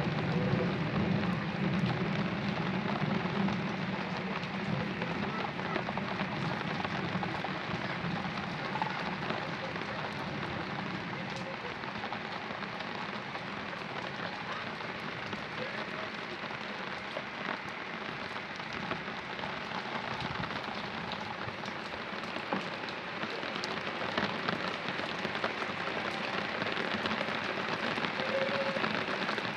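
Heavy rain falling and hitting hard surfaces: a steady, even hiss. A low rumble of thunder dies away during the first few seconds.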